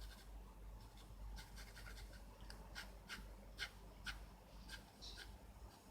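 Pencil scratching on paper in short, faint strokes, about two a second, as details of a drawing are sketched in.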